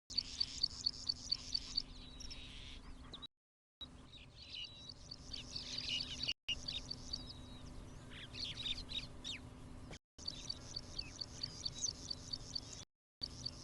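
Birds calling: a fast series of short high chirps, about four a second, with other chirps and calls mixed in. The sound drops out abruptly to silence a few times, once for about half a second and several times for an instant.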